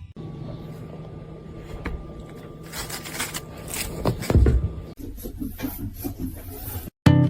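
Scraping and rubbing noises with a few knocks, loudest about halfway through, over a low steady hum; the sound breaks off sharply twice near the end.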